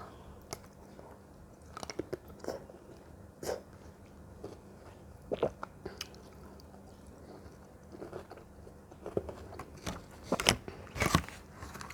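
Close-miked mouth sounds of a person eating fruit: scattered crisp bites and crunches with wet chewing between them, the loudest cluster of bites near the end.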